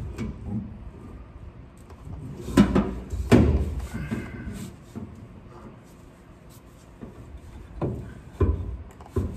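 Metal clunks and knocks from a truck drive shaft being worked up into place against its yoke: two sharp clunks about three seconds in and a few more near the end, with quieter handling noise between.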